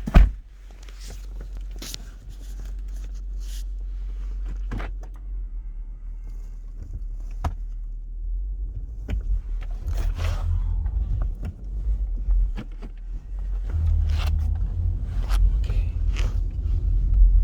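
Low rumble of a 2004 Lexus GX 470 heard from inside its cabin, growing louder in the second half, with scattered clicks and knocks.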